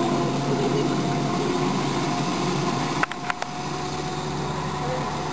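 Backyard ride-on train running on its track with a steady mechanical hum, and a few sharp clicks about three seconds in.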